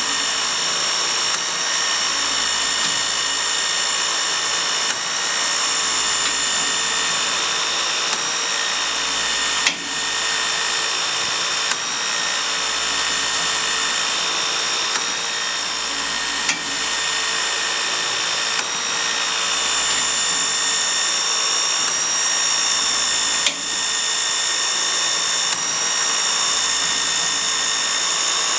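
Prototype Stirling-type engine mechanism running steadily with a high, many-toned mechanical whine. A sharp tick comes roughly every two seconds, as if once per slow cycle of the mechanism.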